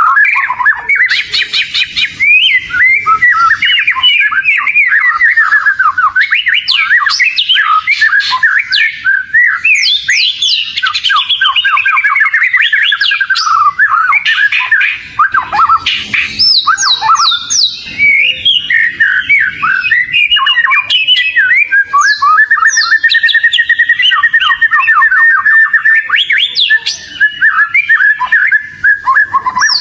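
Oriental magpie-robin (kacer) singing without pause: a rapid, varied stream of whistles, fast trills and harsh chattering notes.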